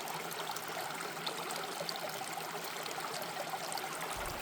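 Mountain stream water running and babbling steadily over rocks.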